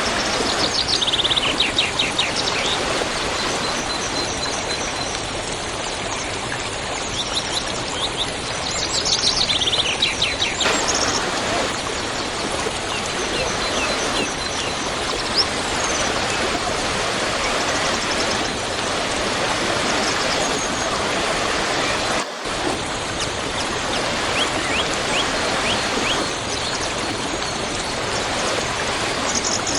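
Waterfall rushing steadily, with small birds chirping in short bursts of high notes several times over it. The sound breaks off for a split second about two-thirds of the way through.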